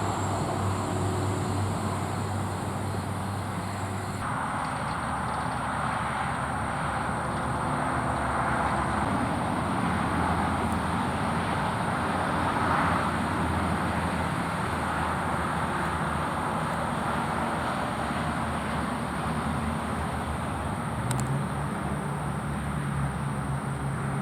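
Steady road traffic noise, a continuous wash of passing vehicles with a low engine hum beneath it.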